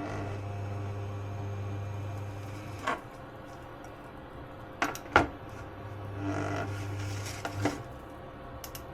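A small electric motor hums steadily for about three seconds and stops with a knock, then two sharp knocks of kitchenware, the second the loudest; the hum runs again for under two seconds near the end and stops with another knock.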